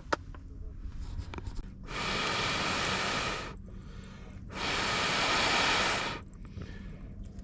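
Two long hissing rushes, each about a second and a half, separated by a pause of about a second.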